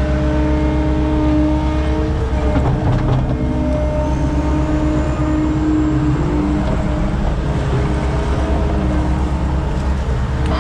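Skid steer's diesel engine running steadily under work, with mechanical tones wavering up and down in pitch.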